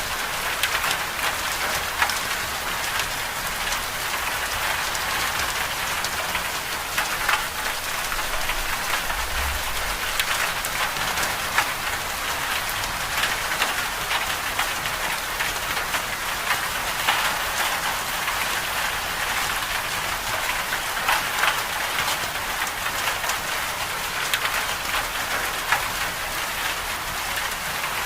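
Steady rain falling on a surface: an even hiss dotted with many small drop ticks, holding the same level throughout.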